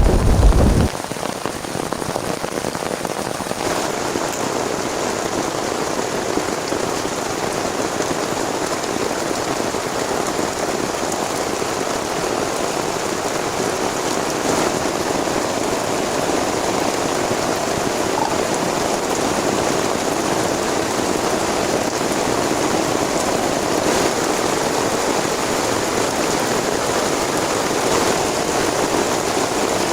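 Heavy rain falling steadily. A loud, deep rumble cuts off about a second in.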